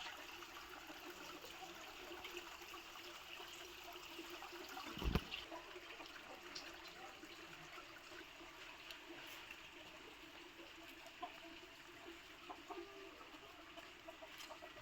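Faint steady outdoor background noise with a few light ticks, and a single dull thump about five seconds in.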